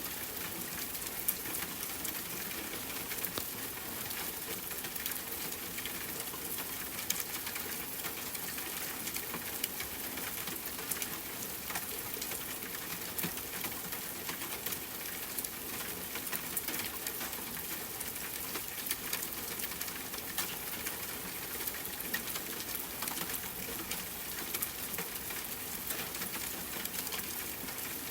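Steady rainfall mixed with a crackling wood fire: an even hiss of rain with frequent small, sharp pops and snaps from the burning wood.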